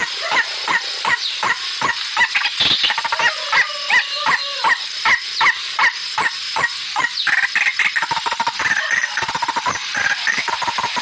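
Bird calls: a rapid series of short, sharp chirps, about two or three a second, with a busier stretch of overlapping notes in the middle.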